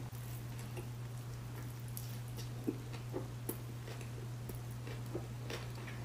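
Close-miked chewing of a bite of fried chicken sandwich: scattered soft crackly crunches and wet mouth clicks, with a few louder crunches around the middle. A steady low hum runs underneath.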